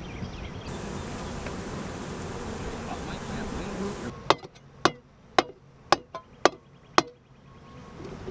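A swarm of honeybees buzzing steadily. It drops off abruptly about four seconds in, and then come about seven sharp knocks roughly half a second apart.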